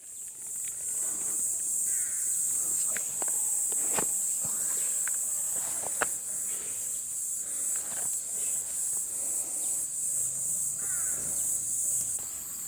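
Insect chorus: a steady, high-pitched shrill with a rapid, even pulse. A couple of short bird chirps come about 2 s and 11 s in, and sharp light clicks are scattered through it, the loudest about 4 s and 6 s in.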